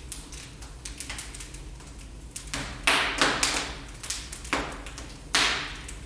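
Wood fire in a fireplace crackling, with many sharp pops and snaps and louder bursts of crackle about three seconds in and again near the end.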